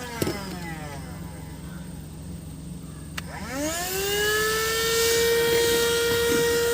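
Handheld car vacuum cleaner's motor whine falling away as it winds down, with a click just after. About three seconds in another click, and the motor spins up with a rising whine that settles into a steady high-pitched run.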